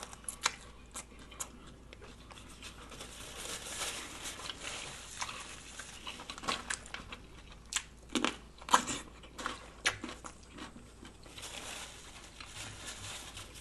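Close-miked eating sounds: chewing and biting into a lettuce-wrapped Unwich sub, with scattered wet clicks and crinkles, busiest about eight to ten seconds in.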